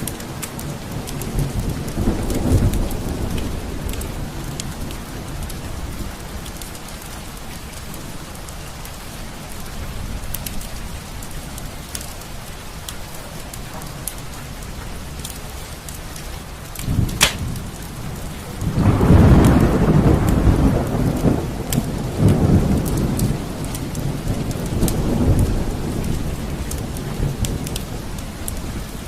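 Steady rain with thunder: a low rumble about two seconds in, then a sharp thunderclap past halfway that rolls on as a long low rumble for several seconds.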